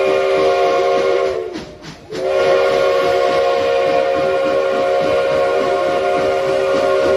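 Steam locomotive whistle of the Durango & Silverton narrow-gauge train blowing a long chord of several notes over a hiss of steam. About a second in the pitch sags and the blast stops, then a second long blast starts and holds.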